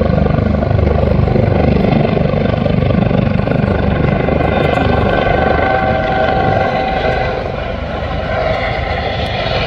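Helicopter flying by with a fast, steady rotor chop over a constant engine whine. It is loud and eases off a little in the last couple of seconds.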